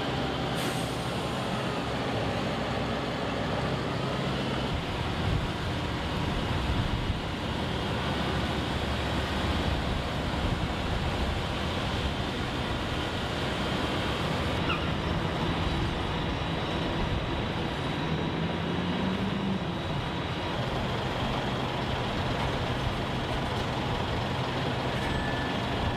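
Heavy-haul truck running steadily with road noise as it moves an oversized load; the engine note rises once, about two-thirds of the way through.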